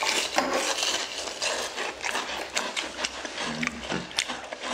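Close-up crunching and chewing of crisp, freshly deep-fried battered loach: a dense run of crackly bites and chews.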